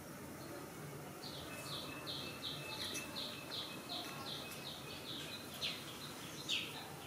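A bird calling: a regular series of short, high chirps, about three a second, starting about a second in, with a few sharper down-slurred notes near the end.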